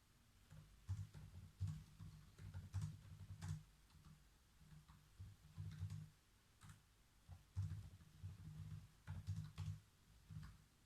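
Computer keyboard typing in short irregular runs with pauses, faint key clicks each with a low thud.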